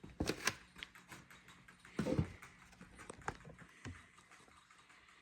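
Scattered light clicks and taps with a dull bump about two seconds in, from handling snake tubs and a feeder rat.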